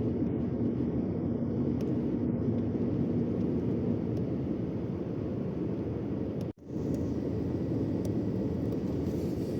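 Steady rumble of a long-haul truck driving through a road tunnel, its engine and tyre noise heard from inside the cab. The sound cuts out for an instant about two-thirds of the way through, then carries on unchanged.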